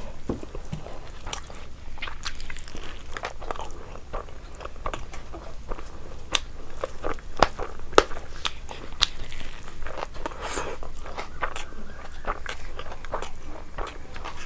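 Close-miked eating of biryani: chewing with repeated wet mouth clicks and smacks, and a few sharper crunches between about six and eight seconds in.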